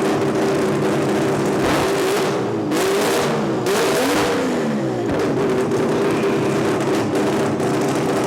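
Turbocharged 20B three-rotor rotary engine of a drag car revving hard at a standstill, very loud. It holds high revs, with the pitch dropping and climbing back up twice, about two and four seconds in.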